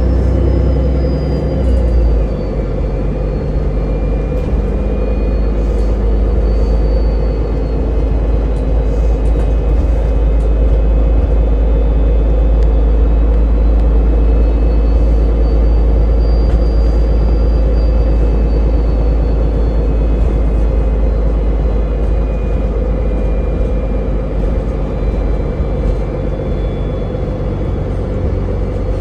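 Interior rumble of a public transport vehicle riding along, steady and loud, with faint high whines that slowly rise and fall.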